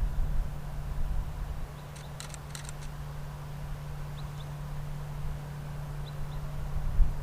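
Wind buffeting the microphone as a low rumble, heaviest at the start, over a steady low hum. About two seconds in there is a quick run of about five sharp clicks, and a few faint high chirps follow.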